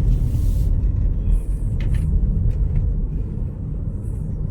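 2016 Audi Q3 on the move: a steady low road and engine rumble, with a few faint ticks about two seconds in.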